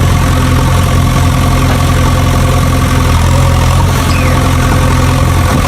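Truck engine idling steadily, a loud, unchanging low drone.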